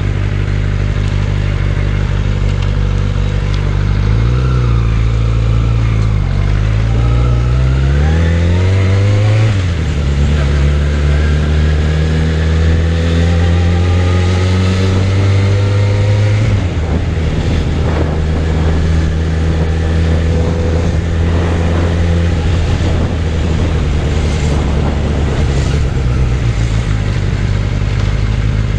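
Suzuki Bandit 600's inline-four engine pulling on the road, its pitch climbing as it accelerates and dropping sharply at an upshift about nine seconds in. It climbs slowly again, drops at a second shift a little past halfway, then runs at a steady pitch.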